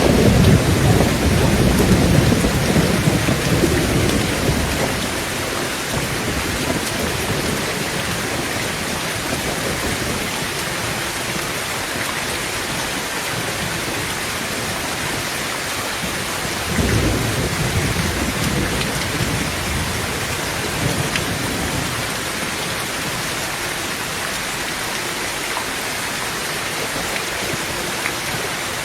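Heavy rain drumming steadily on a tin roof. A roll of thunder rumbles at the start and dies away over the first few seconds, and a second, shorter rumble comes a little past halfway.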